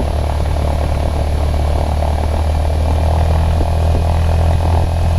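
Cessna 152's four-cylinder Lycoming engine and propeller running steadily in flight, a constant low drone heard from inside the cabin, with a faint thin high whine over it.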